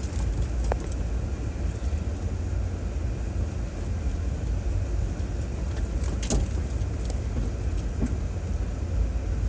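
2006 Chevrolet Trailblazer driving over a trail: a steady low engine and road rumble, with a few sharp knocks, the loudest about six seconds in.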